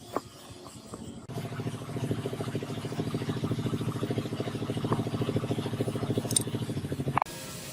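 A small motor running steadily with a fast, even pulse. It starts about a second in and cuts off abruptly near the end.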